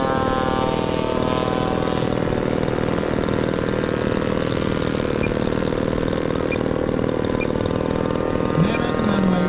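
Radio-controlled model airplane engine running steadily in flight, its pitch drifting slowly as the plane moves about.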